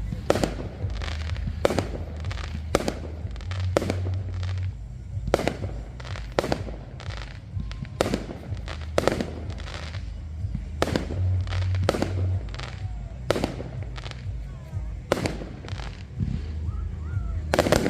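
Fireworks going off, a string of sharp bangs about one a second, some coming in quick pairs.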